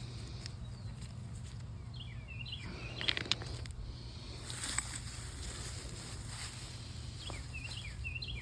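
A bird sings two short chirping phrases, one about two seconds in and another near the end. A couple of sharp clicks and a brief rustle in the middle fit footsteps on creek stones. A low steady hum runs underneath.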